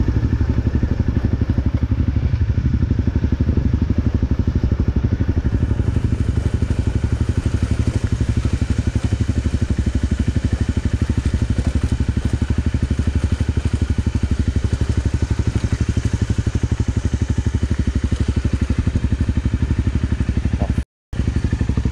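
Honda CRF250L's single-cylinder engine running steadily under the rider, in rapid even exhaust pulses, while the dual-sport rolls along a dirt and gravel track. The sound cuts out for a split second near the end.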